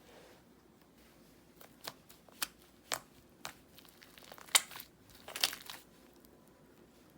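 White slime being pressed and stretched, giving a series of sharp crackling pops, the loudest about halfway through.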